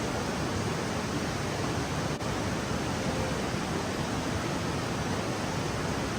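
Steady rushing of a fast river running high and heavy after a lot of rain.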